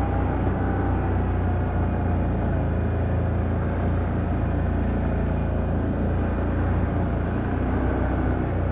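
Can-Am Outlander ATV engine running steadily while under way on the trail, a low, even drone.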